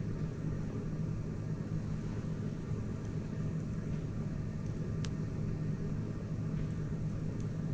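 Wood campfire burning, with a few sharp crackling pops over a steady low rumble.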